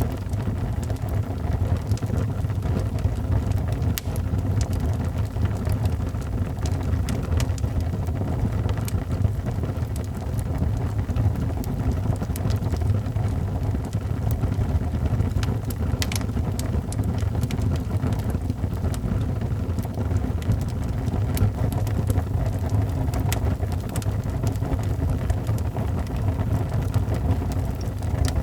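Wood fire burning in a fireplace: a steady low rumble with scattered sharp crackles and pops throughout.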